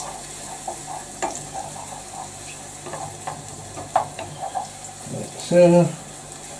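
Mushrooms sizzling in a pan as they are stirred, with scattered scrapes and clicks of the utensil against the pan. A louder short low tone sounds about five and a half seconds in.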